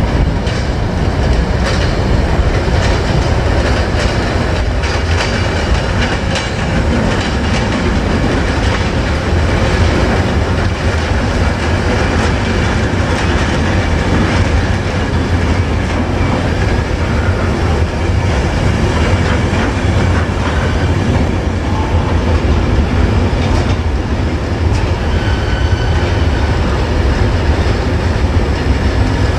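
Freight train's open bogie wagons rolling past at close range: a steady heavy rumble with the rapid clickety-clack of wheels over the rail joints.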